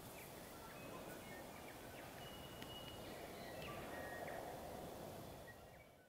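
Faint forest ambience: scattered short, thin bird calls and whistles over a steady soft hiss, fading out near the end.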